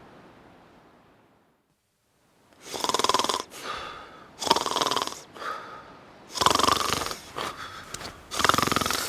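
A person snoring loudly in sleep: four rasping snores at an even pace, about two seconds apart, starting about two and a half seconds in after a soft background noise fades away.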